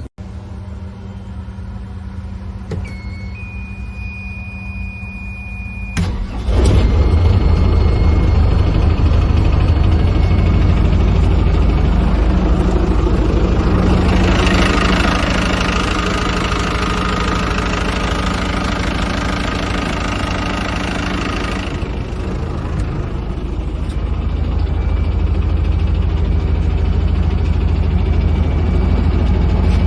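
Yamaha UF25 boat's inboard engine running with a steady low drone. About six seconds in it turns markedly louder, and for several seconds in the middle a hissing noise rides over it.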